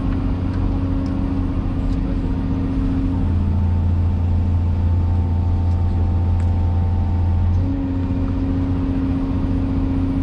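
Cat 336E excavator's diesel engine running steadily; about three seconds in its note changes and gets a little louder for roughly four seconds, then settles back to the earlier note.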